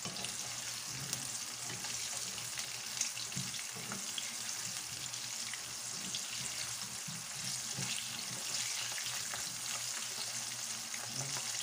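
Pieces of pork belly sizzling in hot oil in a non-stick wok, a steady hiss with small crackles and the scrape and tap of a spatula stirring them. This is the second fry that makes the meat crunchy.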